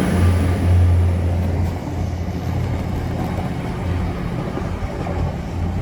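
Great Western Railway express train pulling out of the station: a steady low engine rumble that eases off a little about two seconds in as the train moves away.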